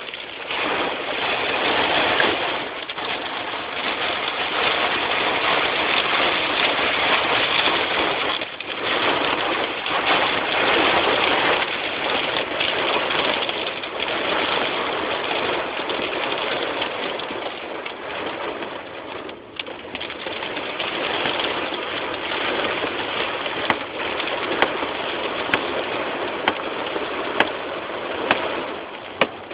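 Squall wind blowing with rain: a loud, steady rushing noise that swells and eases in gusts. Several sharp taps near the end.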